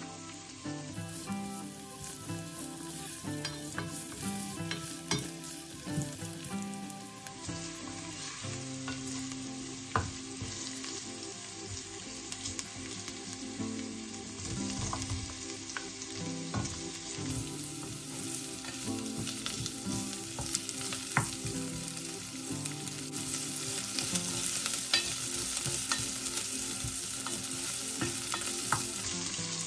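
Food sizzling and frying in a hot pan while it is stirred, with scattered sharp clicks of a utensil against the pan.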